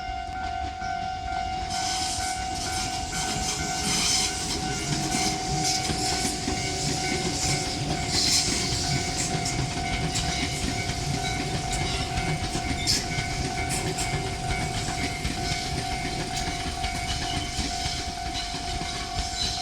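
Japanese level-crossing alarm ringing steadily while a Tobu Railway train rolls past the crossing, its wheels clacking over the rail joints.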